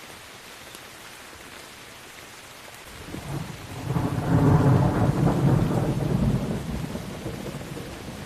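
Steady rain with a roll of thunder that builds about three seconds in, rumbles loudest for a couple of seconds, then slowly fades.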